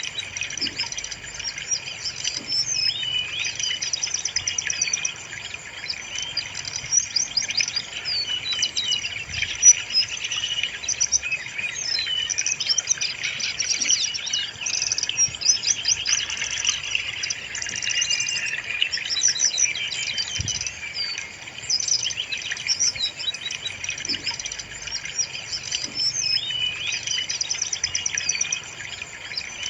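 Brown-chested jungle flycatcher singing without pause: a rapid, varied string of high, gliding notes, as used to lure or train a captive bird into song.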